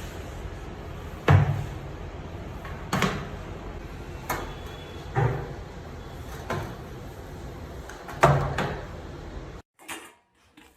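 A bathroom door being banged on hard again and again: about seven heavy thuds at uneven intervals, a second or so apart, the last two close together, over a steady room hum that cuts off abruptly near the end.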